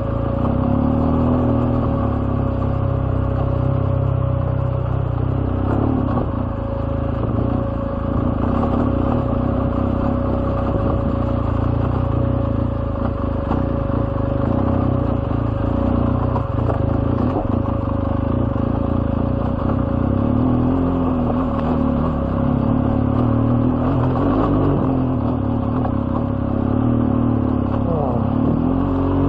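BMW R1200GS boxer-twin engine running at low revs on a rough dirt climb, its pitch rising and falling with the throttle. A steady whine sits under it throughout.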